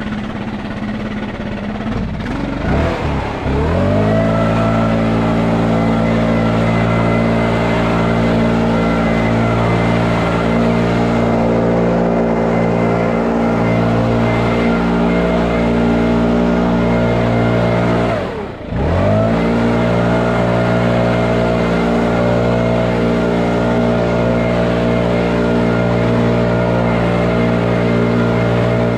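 Lawn mower engine speeding up to full throttle a few seconds in, then running at a very steady high speed. Near the middle it drops away sharply for a moment and comes straight back up to the same steady pitch.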